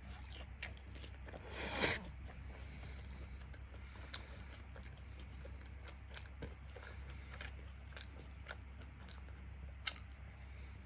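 A person eating fried chicken close to the microphone: chewing and biting, with scattered small clicks and a louder burst of noise about two seconds in.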